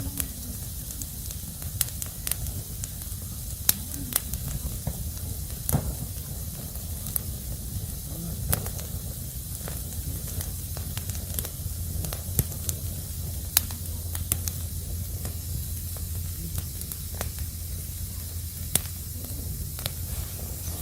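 Crackling wood fire: a steady hiss with sharp, irregular pops and snaps about once or twice a second.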